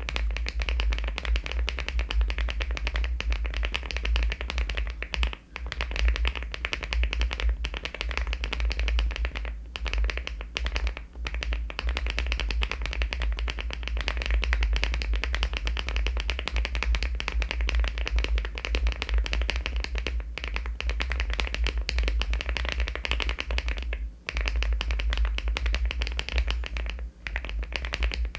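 Continuous fast typing on a LEOBOG Hi75 aluminium mechanical keyboard fitted with HMX switches and Cherry-profile keycaps: a dense run of keystroke clacks with a few short pauses.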